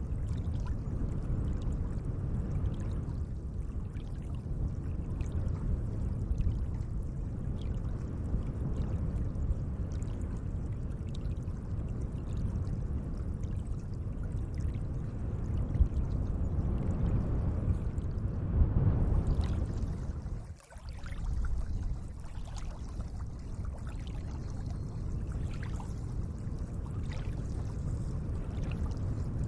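Gentle lake water lapping and trickling: a steady low wash with faint small ticks of splashing on top, and a brief dip in level about 20 seconds in.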